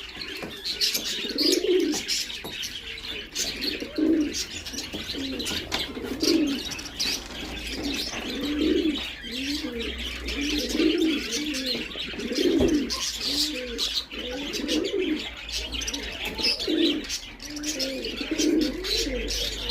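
Domestic pigeons cooing over and over, a low rolling coo every second or two, with continuous high-pitched chirping of other birds behind it.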